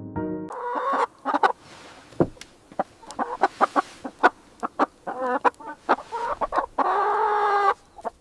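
Chickens clucking in a run of short, quick calls, then one longer, drawn-out call near the end.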